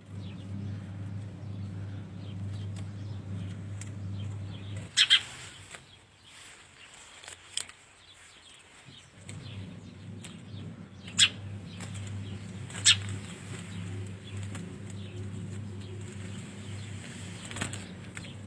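Small birds fluttering, with a few short, sharp chirps, over a steady low hum that drops out for a few seconds about five seconds in.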